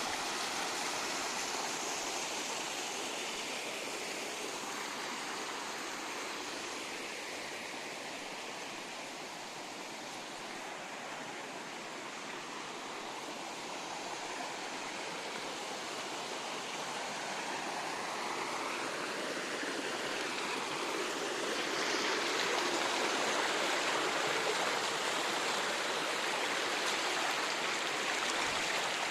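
Rushing water, a steady noise that grows louder from about 22 seconds in.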